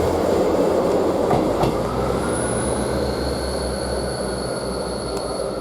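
Class 158 diesel multiple unit running past at the platform: wheels clicking over rail joints in the first two seconds, then a low engine hum and a thin, steady, high-pitched wheel squeal setting in as the rumble slowly fades.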